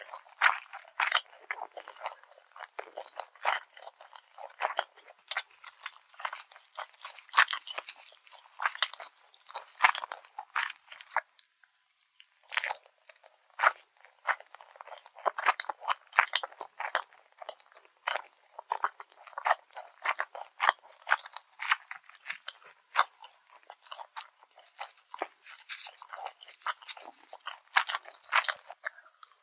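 Close-miked chewing and crunching of grilled garaetteok (Korean rice cake bar), many crisp crunches from the toasted crust in quick succession. There is a brief pause about 11 seconds in, then a sharp crunch as chewing resumes.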